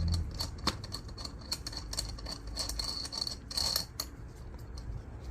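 A run of small metallic clicks and rattles from a nut being turned by hand onto a basin faucet's mounting bolt.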